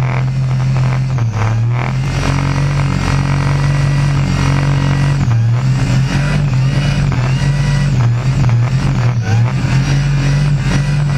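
Supercharged engine of a burnout car held at high revs during a burnout on a burnout pad, its pitch holding steady and stepping up and down a few times.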